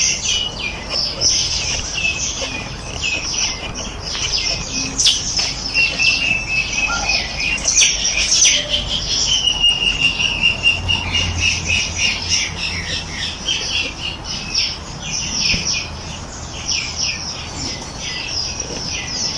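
A chorus of songbirds chirping and trilling rapidly, several voices overlapping, with one long, slightly wavering whistled note in the middle.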